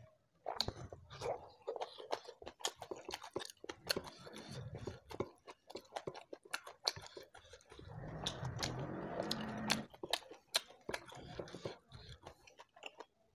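Close-up chewing of balado shrimp, with wet mouth clicks and crunches coming thick and uneven. About eight seconds in there is a denser stretch of mouth noise lasting about two seconds.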